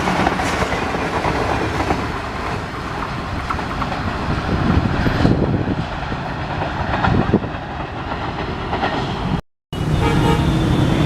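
Train running past, wheels clattering over rail joints with a steady rumble. Near the end the sound cuts out for an instant, and a different background with faint steady tones follows.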